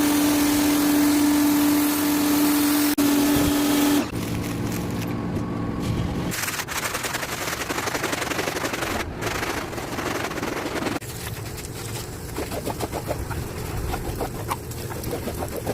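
Rug-washing machinery in a series of quick cuts: a motor runs with a steady hum for about four seconds, then gives way to rougher, noisier machine sounds that change abruptly twice more.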